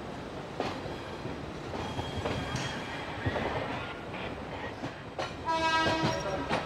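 Passenger train running, its wheels clicking over the rail joints. About five seconds in, a train horn sounds steadily for about a second and a half.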